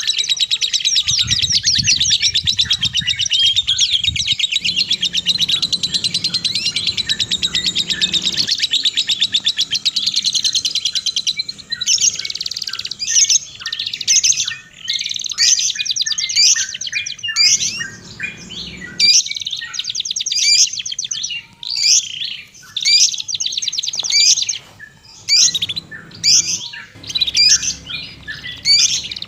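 Songbirds chirping and singing: a dense, continuous rapid twittering for the first ten seconds or so, then separate short chirping phrases about once a second.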